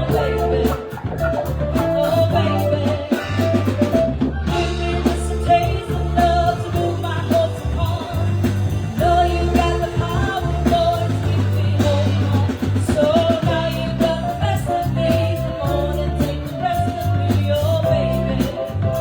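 Live band playing a song: a singer over a drum kit and other instruments, with a steady beat.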